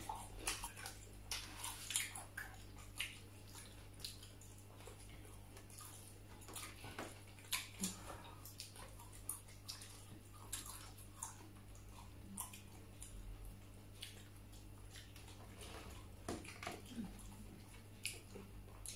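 Faint close-up eating sounds: chewing vegetables, with irregular short wet clicks and crunches, over a steady low hum.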